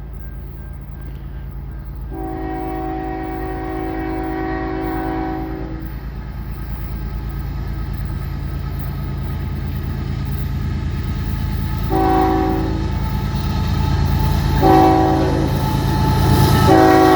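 A CN diesel freight train's locomotive horn sounds over the low rumble of the approaching locomotives. There is one long blast about two seconds in, then after a pause two short blasts and a long one starting near the end. The engine rumble grows louder as the train draws closer.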